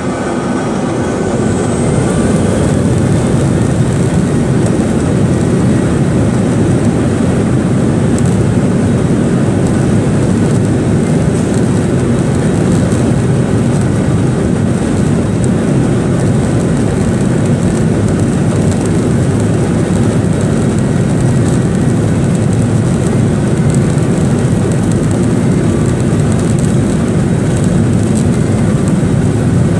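Boeing 737-800's CFM56 jet engines heard from inside the cabin at takeoff power, with a high whine rising about a second in, then running steady and loud over a continuous rumble.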